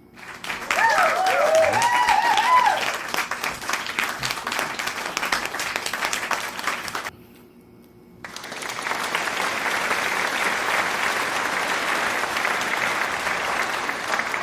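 Crowd applause with cheering whoops over the first few seconds, cutting off suddenly about seven seconds in. A second round of applause starts about a second later and stops just before the end.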